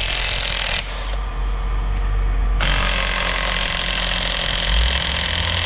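Impact wrench hammering on a fitting of a brass canister, trying to break it loose. It stops briefly about a second in, then starts hammering again.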